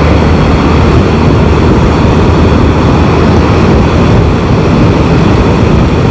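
Steady rush of wind on the microphone mixed with engine and road noise from a Can-Am Spyder three-wheeled motorcycle riding along.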